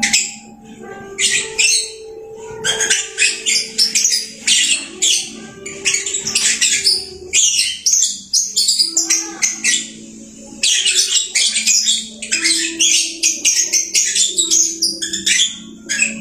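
Lovebird chattering in long runs of rapid, shrill chirps, with short pauses around two seconds in and about ten seconds in, over steady low tones.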